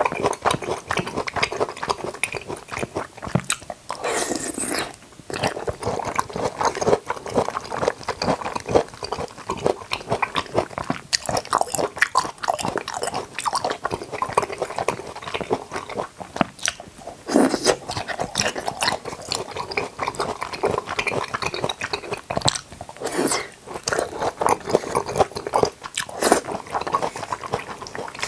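Close-miked chewing of jackfruit: a steady run of wet mouth clicks and smacks, with a few louder bursts along the way.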